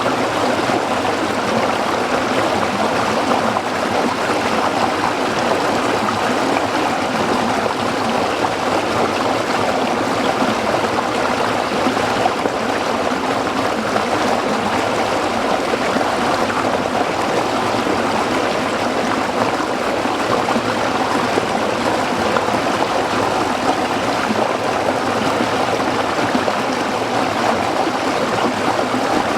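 A small stream flowing over rocks, a steady, unbroken rush of water with trickling and gurgling in it.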